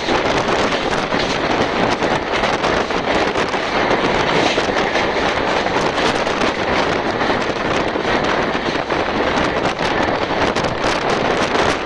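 Express train running at speed: a loud, steady rush of air and running noise, with wind buffeting the microphone at the open window.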